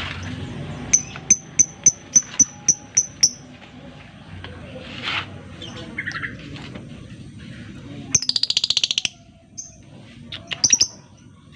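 Lovebird calling: a quick run of about nine sharp, high chirps, three or four a second, then a rapid buzzy rattling call lasting about a second, and a few more chirps near the end.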